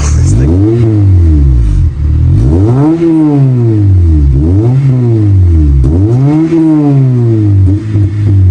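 8th-generation Honda Civic Si four-cylinder engine through a J2 Engineering cat-back exhaust, revved up and back down four times in quick succession, then holding a steadier note near the end.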